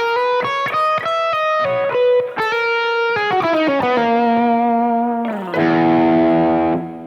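Electric guitar through a Fractal Audio Axe-Fx II modelled amp tone, playing a quick run of single picked arpeggio notes. About five and a half seconds in, a chord is struck and rings out until it is cut off near the end.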